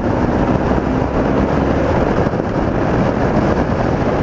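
BMW R80RT's air-cooled flat-twin engine running steadily at riding speed, mixed with wind noise on the microphone.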